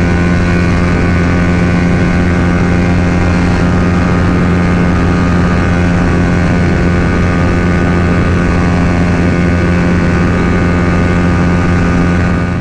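Yamaha R15 V3's 155 cc single-cylinder engine through a Daytona full-system exhaust, held at steady high revs in top gear without climbing any further, over a steady rush of wind noise. The rider takes this as a sign that the engine runs lean without an ECU remap and cannot reach its redline in sixth.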